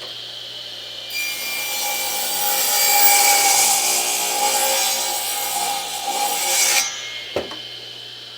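Radial arm saw cutting through a wooden board: the motor runs steadily and the blade bites into the wood about a second in, with loud cutting noise that stops just before the end. The blade then keeps spinning free, with a single sharp click.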